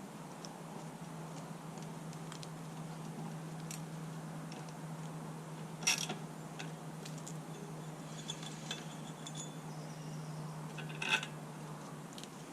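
Occasional sharp metal clinks of a socket and bolts on the coil mounting of a four-stroke mower engine, the loudest about six and eleven seconds in, over a steady low hum.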